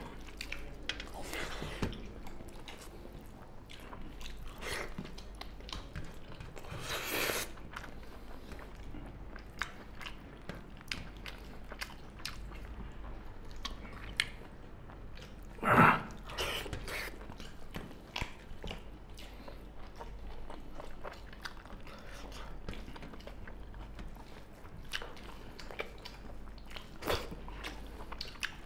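Close-miked eating sounds of two people biting and chewing pork curry and rice eaten by hand, with many small clicking mouth noises. There are two louder sudden noises, about seven and about sixteen seconds in.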